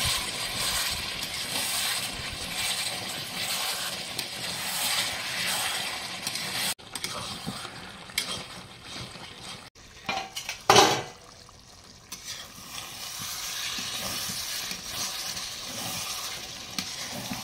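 Chicken curry sizzling and frying in an aluminium kadai while a metal spatula stirs and scrapes through it. A brief louder sound comes a little past the middle.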